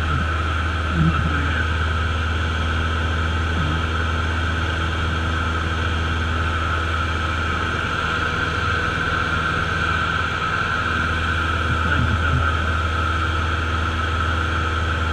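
Cessna light aircraft's piston engine and propeller running steadily, heard inside the cabin.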